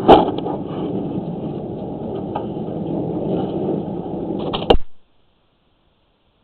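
Steady background noise picked up by the sewer-inspection camera's recording microphone, with a sharp click at the start and another near the end, then the audio cuts off suddenly to silence, as though the microphone is muted.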